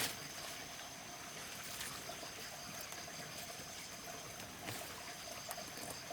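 Water trickling and running steadily, with a few sharp little knocks or splashes, about a second and a half apart near the end.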